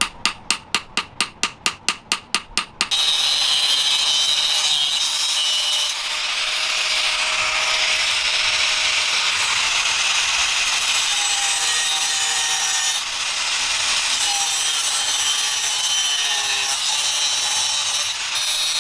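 A hammer strikes metal in quick, regular blows, about four a second, and stops about three seconds in. Then comes a steady, harsh grinding of metal that runs on with only brief dips.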